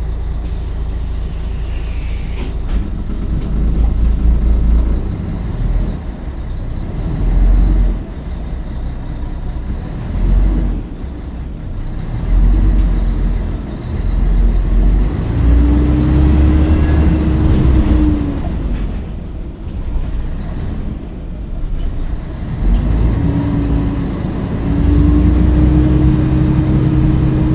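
Scania L113CRL bus's six-cylinder diesel engine running as the bus drives, its sound rising and falling several times as it pulls and eases off. A steady whine comes in twice in the second half.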